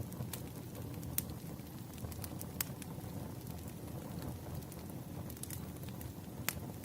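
Wood fire crackling: sharp pops at irregular intervals over a steady low rumble.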